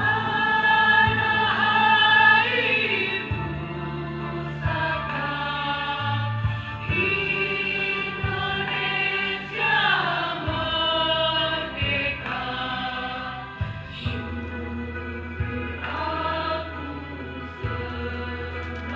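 School choir singing a song, with held notes that rise and fall, over a steady low bass line that moves in steps.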